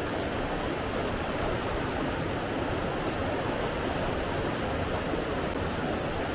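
Steady, even rush of flowing water with no breaks or single events.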